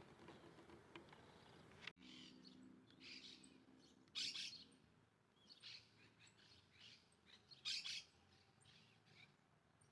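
Wild birds calling: a series of short, high chirps, the loudest about four and eight seconds in.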